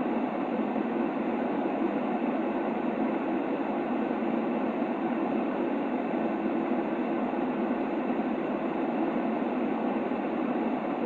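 Steady, unchanging hiss-like noise for sleep, weighted toward the low-middle range so it sounds like a soft rumbling hush rather than a bright hiss, with no rhythm or change.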